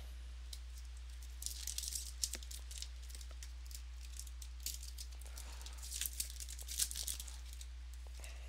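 Wrapping on a pack or box of trading cards being torn open and crinkled, in two crackly bursts a few seconds apart.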